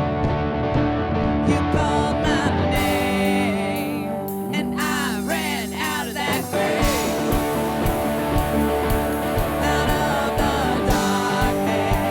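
Live church worship band playing a song with guitar and singing. The beat drops out for a couple of seconds near the middle while a pitch-bending vocal or lead line carries on, then a steady drum beat returns.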